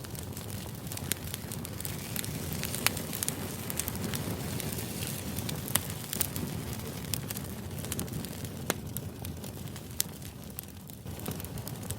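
Crackling fire ambience: a steady low hiss with frequent sharp, irregular pops and crackles.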